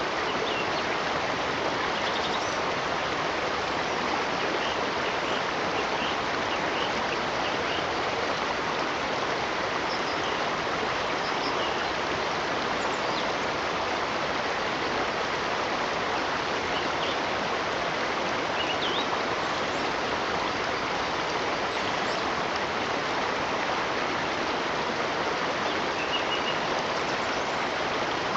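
Steady rush of running water, like a stream, with short faint bird chirps here and there.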